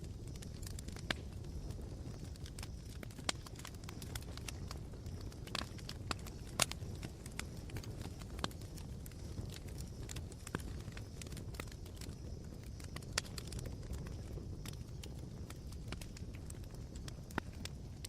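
Smouldering campfire embers crackling, with sharp irregular pops and snaps over a low steady rumble.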